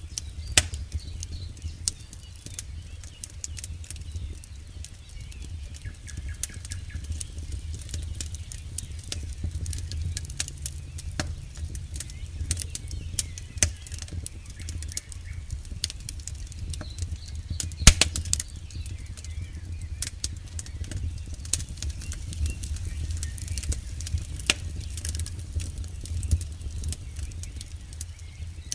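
Campfire burning: irregular sharp pops and snaps of the wood over a steady low rumble of the flames, with one louder crack a little past halfway.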